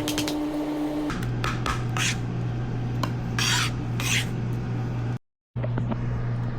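Several short rubbing or scraping strokes over a steady low hum, with a steady tone in the first second. The sound cuts out briefly just after five seconds.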